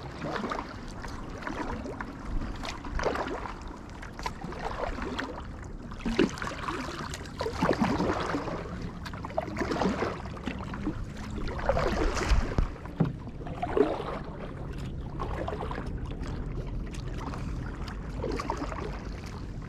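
Kayak paddle strokes: the blades dip, splash and drip in the water in irregular strokes about every second or two.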